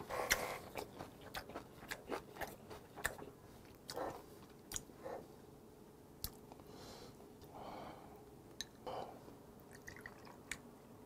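Close-miked chewing of a mouthful of food, with wet, squishy mouth sounds and many short crisp clicks over the first few seconds, then quieter and sparser chewing.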